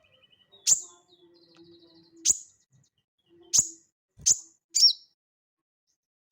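A sogon bird calling: five loud, sharp single notes about a second apart, the last one sliding down in pitch, with a soft rapid twitter between the first two.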